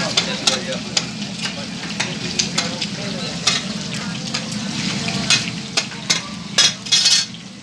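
Kebab patties and egg sizzling in a wide pan of hot oil, while a metal spatula scrapes and clinks against the pan as it stirs them. The frying hiss is steady, with a couple of louder clanks of the spatula near the end.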